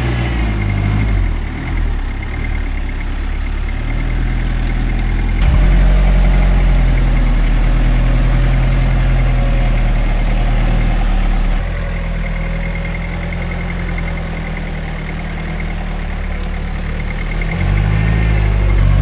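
Rock-crawling off-road truck's engine working at low speed. It gets louder about five seconds in, eases back about halfway through, and the revs rise and fall again near the end, with a thin steady high whine over the top.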